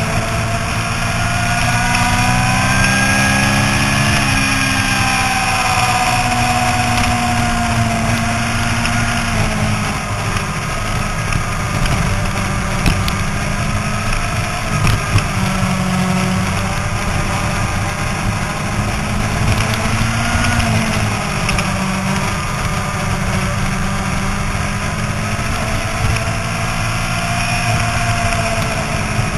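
Yamaha YZF-R6 inline-four engine running at track speed, its note climbing over the first few seconds, dropping about four seconds in, then rising and falling again around twenty seconds, with steady wind rush over it.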